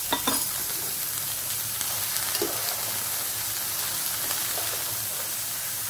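Chopped okra sizzling in hot oil in a pan as a spatula stirs it, cooking in the oil with no water added. A few sharp taps of the spatula sound just after the start and once more a couple of seconds in.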